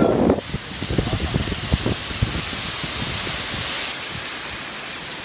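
Heavy rain falling on a flooded street: a steady loud hiss with scattered low thuds, stepping down abruptly to a softer hiss about four seconds in.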